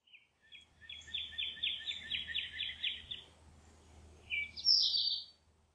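Bird song: a fast trill of about five high notes a second, then a couple of higher chirps a little over a second later.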